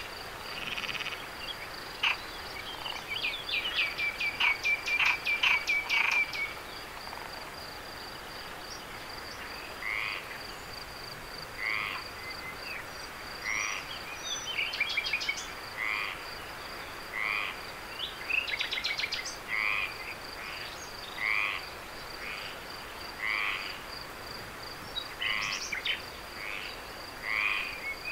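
Night chorus of frogs and insects: a steady high pulsing trill runs throughout, with loud bursts of rapid clicking calls in the first few seconds. From about a third of the way in, short calls repeat every second or two.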